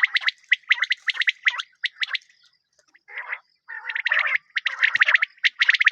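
Birds calling in quick series of short chirping notes, with a brief pause a little before the middle and denser chattering toward the end.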